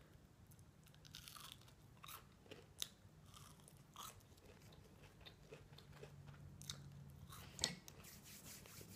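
Mouth close to the microphone, chewing crunchy battered onion rings: soft, scattered crisp crunches, with a couple of sharper crunches about 3 seconds in and near the end.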